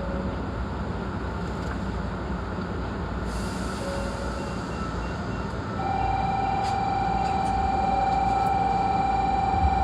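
Hankyu 8300-series electric train heard from inside the car: a steady low rumble, then a hiss about three seconds in. A steady high whine starts a little before halfway and carries on as the sound grows louder.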